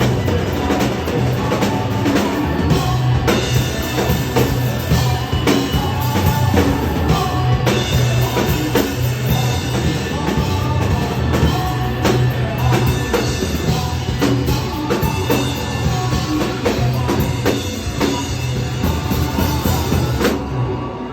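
Live indie rock band playing the closing section of a song, with drum kit, bass and electric guitar. The full band stops abruptly near the end, leaving a ringing tail.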